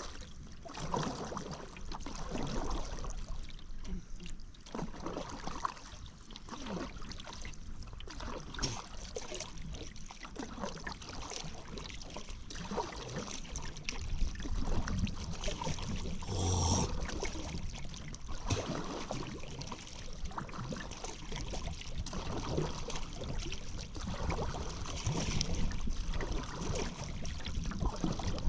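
Paddle strokes in river water, a splash and drip every second or two as a paddle dips and lifts. About halfway through, a single knock stands out, louder than the strokes.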